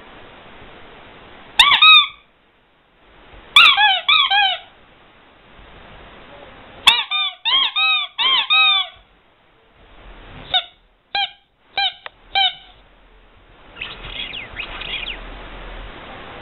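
Rubber squeaky toy squeezed over and over in short bursts, each squeak a brief rise and fall in pitch.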